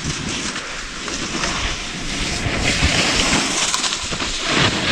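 Skis sliding and scraping over snow while skiing downhill, a hiss that grows louder about halfway through and peaks near the end, with wind rumbling on the microphone.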